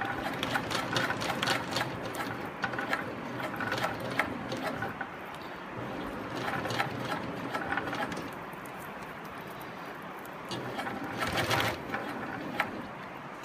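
SEWPRO 18365-10 high post walking foot industrial sewing machine stitching slowly through heavy thread in short runs: a steady run of needle strokes, a pause, then a shorter run near the end.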